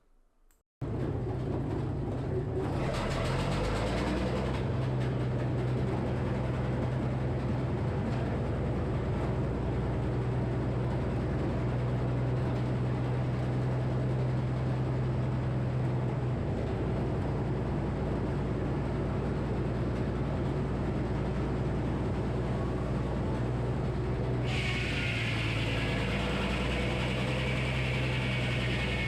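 Frick sawmill running: the power unit hums steadily with the 48-inch circular blade spinning. About 24 seconds in, a hissing rush joins as the blade cuts into the tulip poplar log, and the hum dips briefly under the load.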